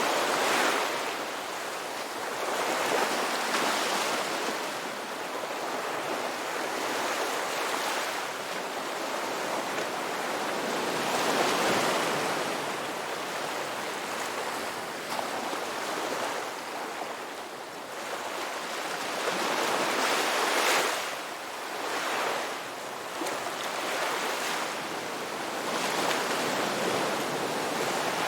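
Ocean surf: waves breaking and washing up a beach, the rush swelling and easing every few seconds.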